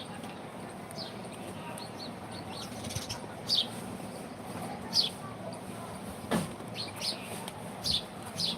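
Small birds chirping: short, high, falling notes repeated every second or so over steady background noise.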